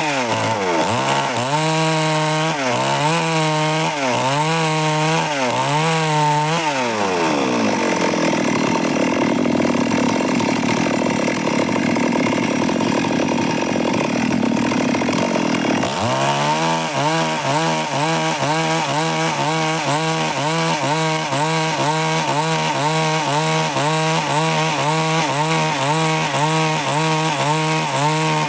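Stihl MS 382 two-stroke chainsaw running at high revs while cutting wood, its pitch wavering up and down rhythmically as the load changes. A rougher, noisier stretch runs through the middle before the steady wavering returns.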